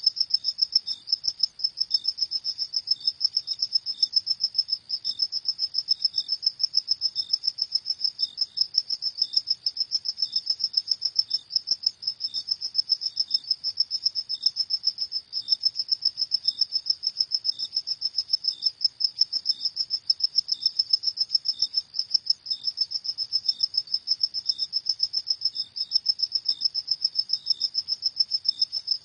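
Crickets chirping at night: a continuous high, rapid pulsing trill with no break, and a fainter, lower chirp repeating about twice a second beneath it.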